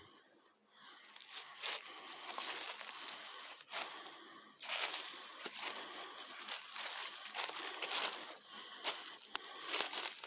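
Footsteps crunching and rustling through dry leaf litter on a woodland trail, in an uneven walking rhythm that starts about a second in.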